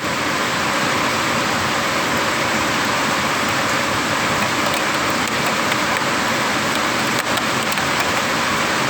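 Heavy rain falling steadily in a thunderstorm, an even hiss, with a couple of sharp drop ticks about seven seconds in.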